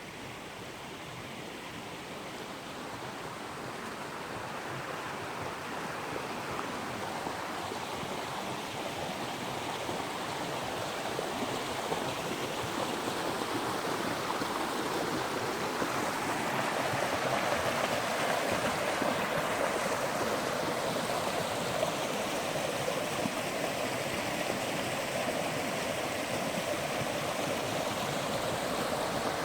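Creek water rushing over rocks, a steady wash that grows louder for the first half and then holds steady.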